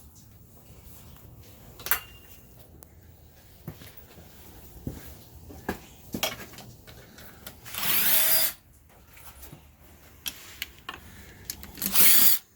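Handheld power drill or driver running in two short bursts, one about two-thirds of the way in and one near the end, each rising and falling in pitch. Between them are scattered clicks and clanks of tools and metal parts being handled.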